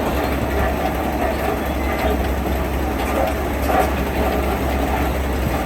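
Heavy diesel construction machinery running, a steady low rumble with a continuous mechanical noise over it.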